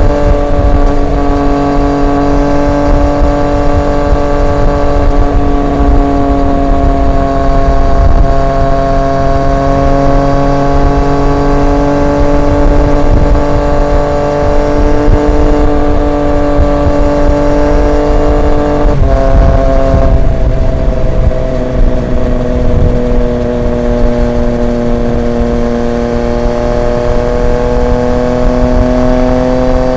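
Triumph Street Triple 765 RX's three-cylinder engine through an SC Project S1 aftermarket exhaust, running at steady revs while cruising. About two-thirds of the way through, the engine note drops suddenly, then slowly climbs again.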